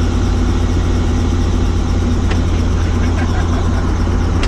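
Helicopter's engine and rotor running with a loud, steady low drone, with a couple of faint ticks over it.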